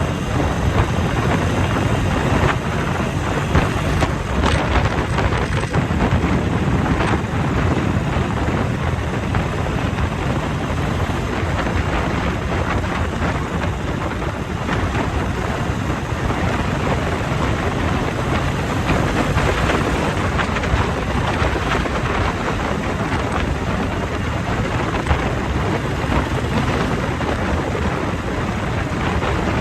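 Wind buffeting the microphone on a moving motorcycle, a steady loud rumble of rushing air with the ride's engine and road noise under it.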